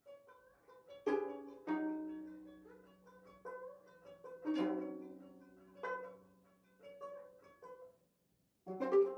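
Sanjo gayageum, the Korean twelve-string zither, played solo: single plucked notes ring and fade slowly, with a few hard plucks, a low note sustained under them, and a short pause before a strong pluck near the end.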